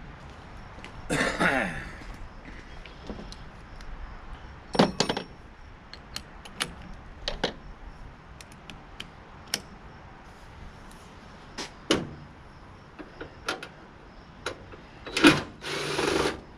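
Hand tools clinking and knocking on the metal parts of a tankless water heater being taken apart, with a longer scrape about a second in and a louder one near the end.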